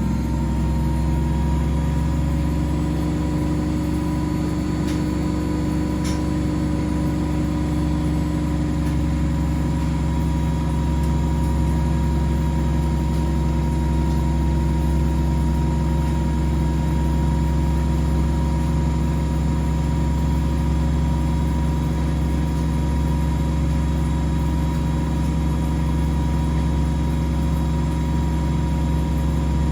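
Household washing machines and tumble dryers running together: a steady mechanical hum with several steady tones.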